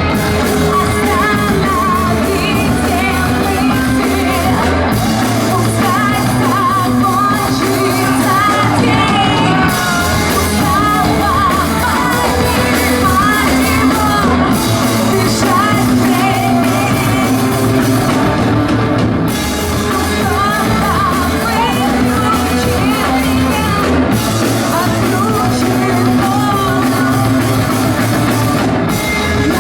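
Live rock band playing in a club hall: a singer's vocal over electric guitars, bass and a drum kit, steady and loud.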